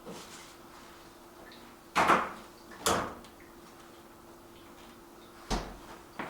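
Four sharp knocks and clunks: two loud ones about a second apart around two seconds in, then two more near the end, the first of these with a deep thud. A steady low hum runs underneath.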